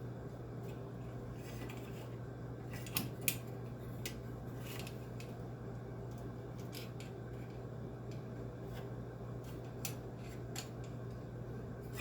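A few short, sharp clicks of small metal hand tools at work, the loudest two about three seconds in and a few fainter ones scattered later, over a steady low hum.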